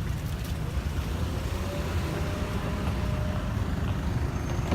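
Steady low rumble of cars in slow, jammed road traffic.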